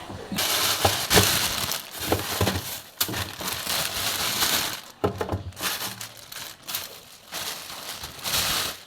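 Crinkling, rustling handling noise in uneven stretches of a second or so, with short pauses between them and a few sharp clicks.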